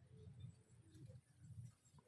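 Faint dove cooing in short, low pulses, about three in two seconds.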